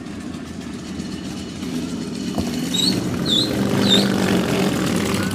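Car engine exhaust running, growing louder to a peak about four seconds in; very loud. Three short high chirps sound during the loudest part.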